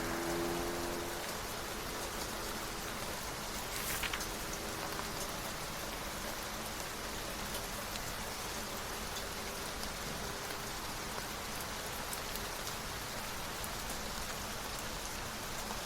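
Steady rain falling, with a brief rustle about four seconds in.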